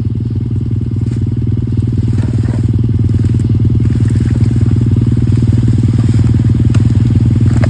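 Single-cylinder pit bike engine running at a steady idle, getting slightly louder.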